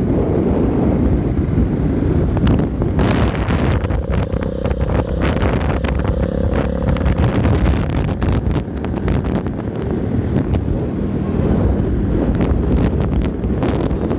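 Bajaj Pulsar 220's single-cylinder engine running through an aftermarket SC Project exhaust, heavily buffeted by wind noise on the microphone.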